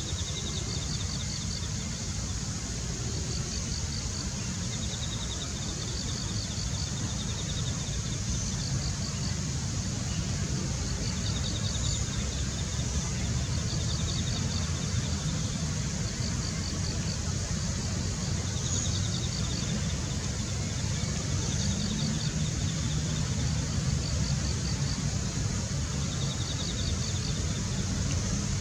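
Steady low rumble of outdoor background noise, like distant traffic or wind, with short high trills of rapid ticks repeating every second or two throughout.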